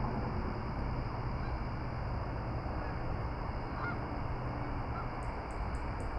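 Steady outdoor nature ambience: an even low rush, with a few faint, short honking bird calls. A faint, high, regular ticking starts near the end, about four a second.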